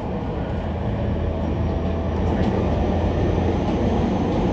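Onboard running noise of a JR East E231-series 0-番台 commuter train car: a steady rumble of wheels on rail heard from inside the cabin, growing slightly louder about two seconds in.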